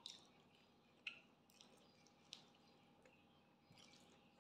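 Faint eating sounds: a few sharp, wet mouth clicks and smacks of chewing a handful of rice and pork, over near silence.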